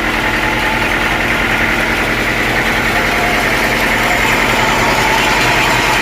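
Sawmill engine running steadily without load, a continuous mechanical hum.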